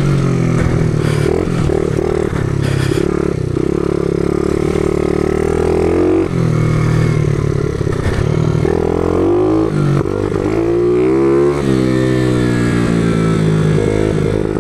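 Small pitbike engine being ridden off-road, its revs climbing and falling several times as the throttle opens and closes, with brief drops about six and ten seconds in.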